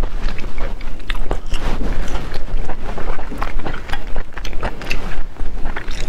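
Close-miked chewing of raw seafood: a run of wet mouth clicks and smacks, several a second.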